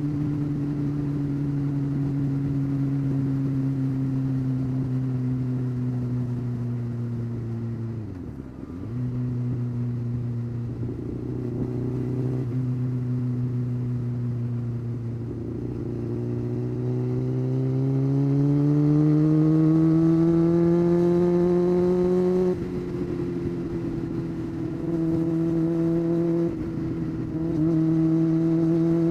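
Honda CBR600 F4 motorcycle engine running under way at steady revs, with a brief drop in revs about eight seconds in. Later the revs climb steadily as it accelerates, then change suddenly, as at a gear change, and it settles into steady running again.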